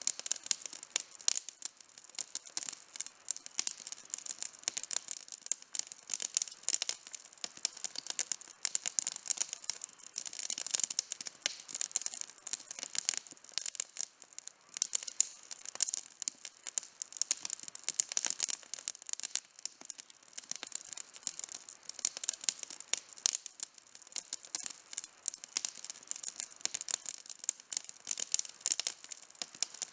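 Outdoor campfire burning, its wood crackling and popping in a dense, irregular stream of sharp clicks.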